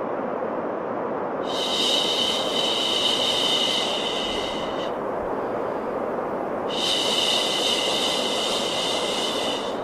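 Steady baby-sleep white noise, a continuous rushing hiss. A brighter, sharper 'shh'-like hiss is layered on top and swells in twice, each time for about three and a half seconds, in a slow repeating cycle.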